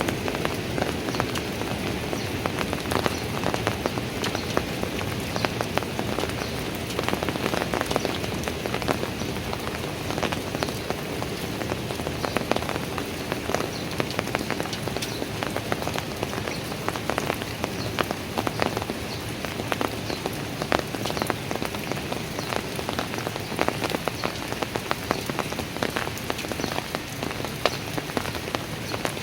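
Steady rain falling on hard surfaces, with many individual drops heard as sharp, irregular taps over a constant hiss.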